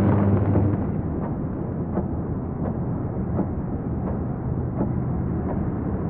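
Thunder from a strike just before, its loudest rumble dying away in the first second, then a steady dull rumble with faint ticks about every 0.7 seconds.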